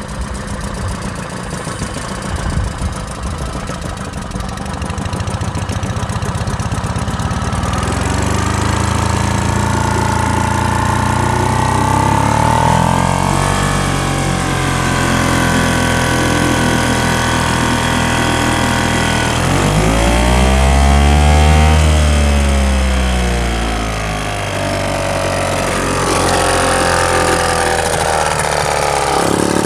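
Boat engine running and revved up twice, its pitch rising and falling each time, the second burst the loudest, as the grounded boat is worked off a sandbank back into deep water.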